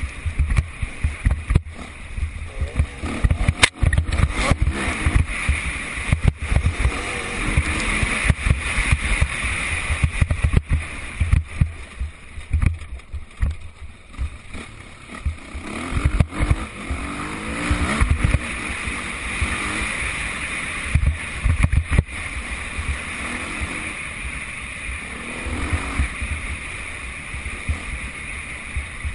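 Motocross dirt bike engines running and revving, their pitch rising and falling as the bikes accelerate and pass, over frequent low thumps on the microphone.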